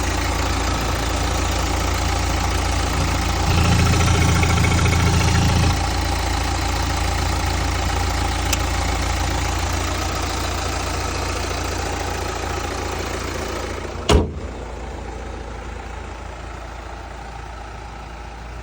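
2013 Hyundai Santa Fe's 2.2-litre turbo-diesel engine idling steadily, growing louder for about two seconds around four seconds in. A single sharp knock comes about fourteen seconds in, and the sound then slowly grows quieter.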